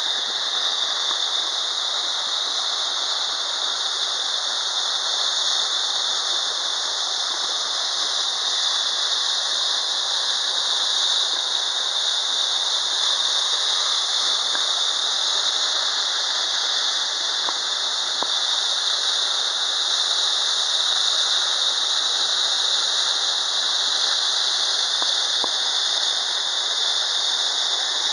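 Water falling down a 30 m tiered waterfall: a steady, unbroken rushing hiss, strongest in the upper range.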